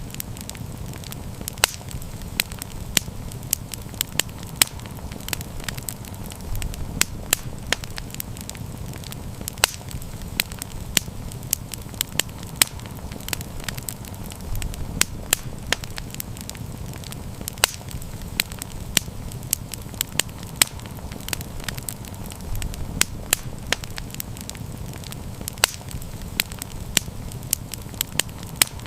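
Campfire burning with a steady low rumble and frequent sharp crackles and pops, several a second.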